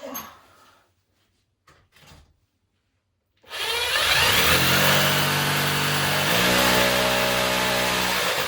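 Electric power drill running and boring into a wall. It starts a few seconds in and runs steadily, with a slight shift in its pitch partway through.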